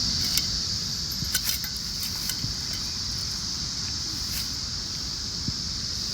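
Firewood burning in a campfire, crackling with scattered small pops, over a steady high-pitched drone of insects.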